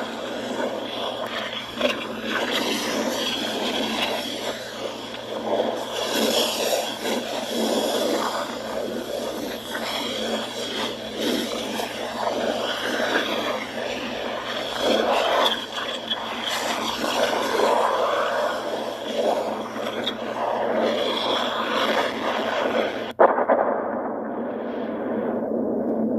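Popocatépetl volcano venting an ash column: a loud, continuous rushing noise that surges and eases irregularly. About 23 s in it cuts abruptly to a duller version with the highs gone.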